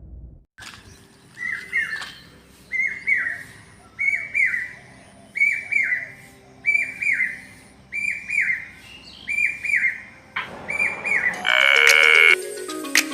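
A bird repeating a short two-part call about once every second and a half. Near the end a loud harsh buzz lasts under a second.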